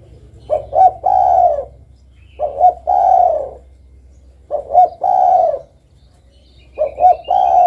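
Spotted dove (derkuku) cooing: four phrases about two seconds apart, each two short coos followed by a longer, falling coo. Faint chirps of another bird come in near the end.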